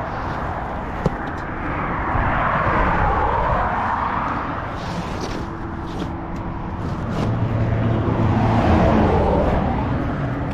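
Road traffic going past: two vehicles pass, their tyre and engine noise swelling and fading, the first about three seconds in and the second near the end, with a low engine hum.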